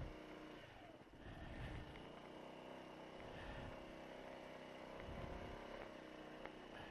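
Honda SH150i scooter's single-cylinder four-stroke engine running under way, its pitch drifting slightly up and down with the throttle. It is joined by several short low rumbles.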